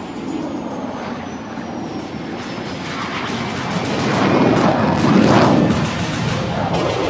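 Jet engines of BAE Hawk jet trainers taking off, a loud rushing jet noise that swells to its loudest about five seconds in, with a faint high whine falling in pitch during the first few seconds.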